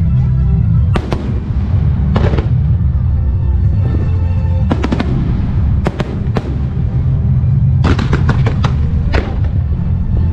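Fireworks shells bursting in a music starmine display: single sharp bangs about a second in and near two seconds, a cluster in the middle, then a rapid string of reports around eight seconds, over loud music.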